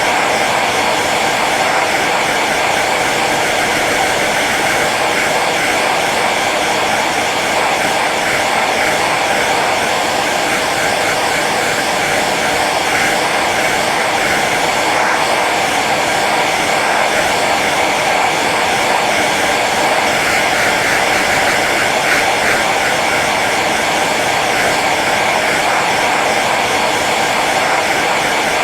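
Hair dryer running steadily on its low setting: an even whooshing blow of air and motor hum, unchanging throughout.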